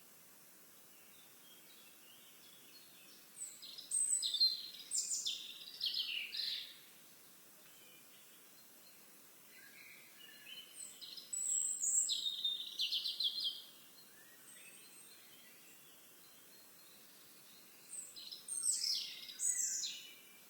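A songbird singing three phrases of a few seconds each, each a quick run of high chirps and trills, over faint steady outdoor hiss.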